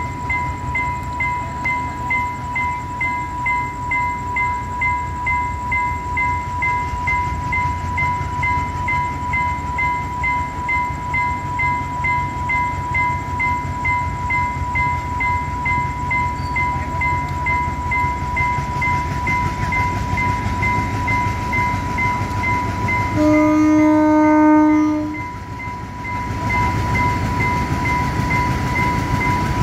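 A level-crossing warning alarm sounds continuously, a steady tone with a beep pulsing about twice a second, over the low rumble of an approaching Alco-type diesel-electric locomotive (Class M8). About 23 seconds in, the locomotive sounds its horn on one note for about two seconds.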